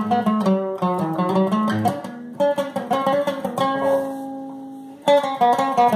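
Guitar being played with picked notes in a flowing line; about halfway through, a chord is left to ring and fade for over a second before the picking starts again strongly near the end.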